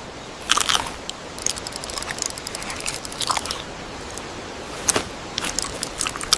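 AI-generated (Google Veo 3) sound of a cartoon hamster crunching and chewing a cracker. Several crisp crunches are spread through the clip over a steady background hiss.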